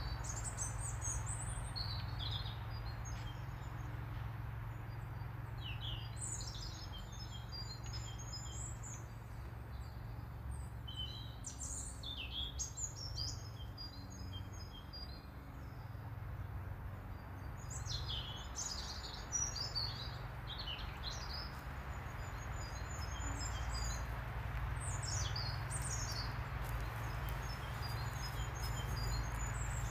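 Wild birds chirping and singing in scattered bursts of high-pitched calls and trills, over a steady low background rumble.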